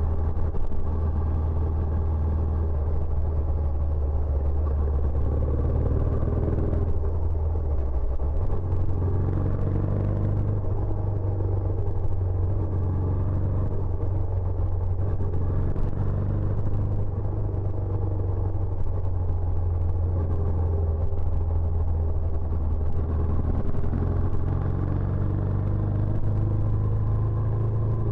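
Benelli Imperiale 400's air-cooled single-cylinder engine running through its stock exhaust, a steady low note. The note drops about eight seconds in and comes back up a couple of seconds later, with smaller changes in engine speed after that.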